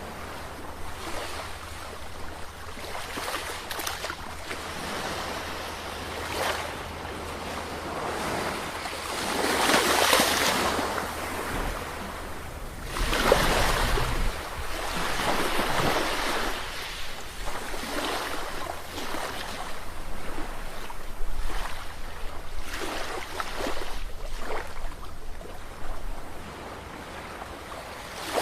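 Sea waves breaking and washing up the shore in repeated swells of surf. The biggest rush comes about a third of the way in, and another soon after the middle.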